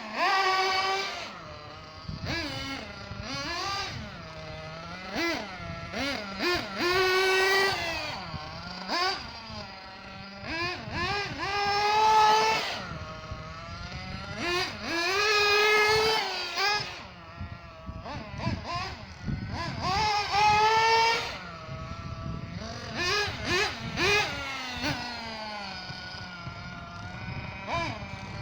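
Ansmann Virus 2.1 nitro RC buggy's small glow-fuel engine revving hard in repeated runs. Its high-pitched note climbs steeply and then drops back to a low idle between bursts, several times over.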